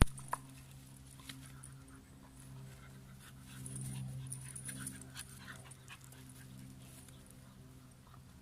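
Dog panting, over a steady low hum, with a sharp click right at the start.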